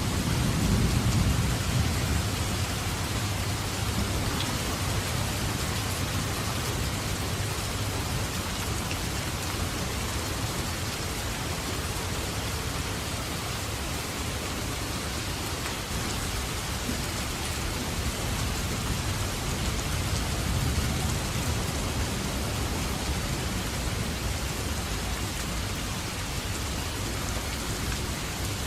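Steady heavy rain falling and spattering on surfaces, with low rolls of distant thunder swelling in the first couple of seconds and again about two-thirds of the way through.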